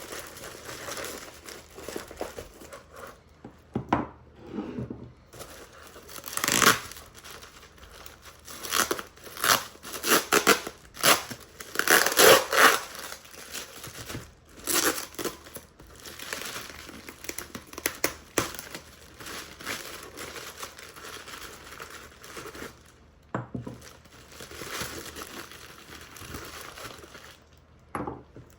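Packing wrap being crinkled, torn and pulled off carved crystal bird figurines during unboxing, in irregular rustling bursts that are loudest about halfway through.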